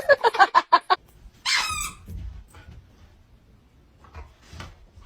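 Parrot calling: a rapid run of short clucking notes, then about a second and a half in a single loud, harsh squawk.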